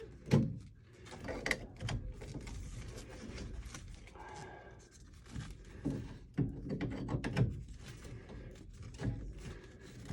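Irregular knocks, thunks and clatter of tools and parts being handled during plumbing repair work, with a few louder thuds.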